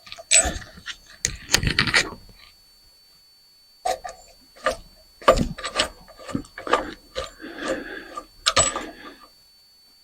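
Metal parts of a ceiling fan clinking and rattling as it is taken apart by hand, with sharp knocks and scrapes in two spells separated by a short pause.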